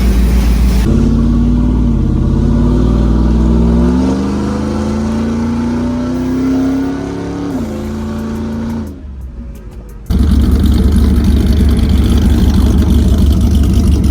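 A car engine accelerating, its pitch climbing steadily for several seconds before it eases off. About ten seconds in, a loud steady engine and road rumble starts abruptly.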